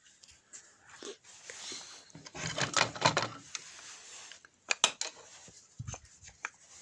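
Hands taking apart a cordless drill: irregular clicks, knocks and rattles of its plastic parts being handled, with a dense run of rustling about two and a half seconds in and a few sharp clicks near the end.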